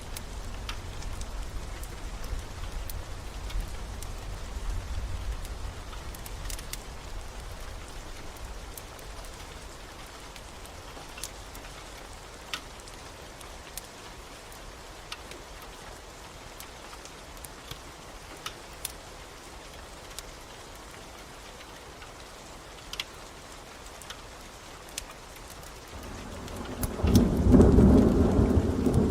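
Steady rain with scattered sharp crackles of a log fire. A low rumble of thunder fades away over the first several seconds, and a loud roll of thunder swells in near the end.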